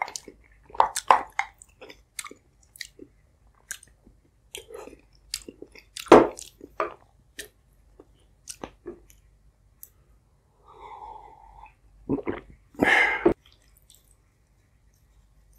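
Close-miked chewing and swallowing of soft egg and potato from eshkeneh soup: a run of short, wet mouth clicks. A louder sound comes about six seconds in, and another just before the end.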